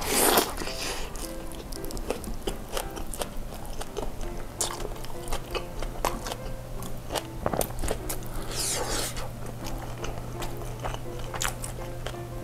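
A bite into a soft kebab wrap right at the start, followed by wet chewing and mouth sounds close to the microphone, with short clicks and crackles throughout and another loud crunchy moment about eight and a half seconds in.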